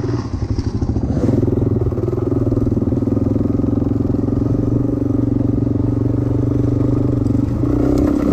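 Suzuki DR-Z dirtbike's single-cylinder four-stroke engine running at steady revs. The engine note dips briefly in the first second and shifts in pitch near the end.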